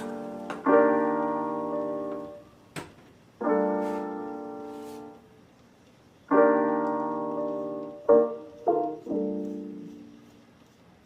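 Background piano music: slow chords struck every few seconds and left to fade, then a few short notes near the end.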